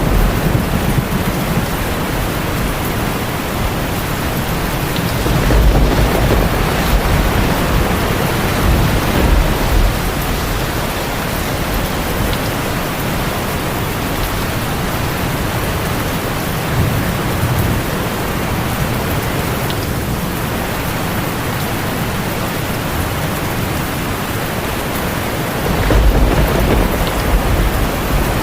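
Heavy rain drumming steadily on a tin roof, with low thunder rumbling in several swells, the strongest starting near the end.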